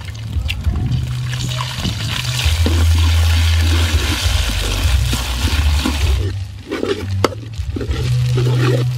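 Duck eggs and chopped garlic sizzling in hot soybean oil in a steel wok, with a metal spatula scraping and knocking against the wok as the eggs are broken up and stirred. The sizzle is loudest from about one to six seconds in, then drops back as the spatula scrapes and knocks take over, over a low rumble.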